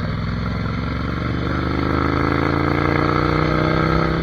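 Ducati Monster 797's air-cooled L-twin engine accelerating while riding, its note rising steadily for about three seconds, then dropping away at the end.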